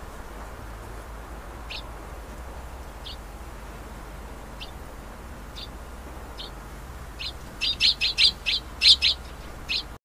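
Bird chirping: short, high chirps, a few scattered ones at first, then a quick run of about eight louder chirps near the end, over steady background noise.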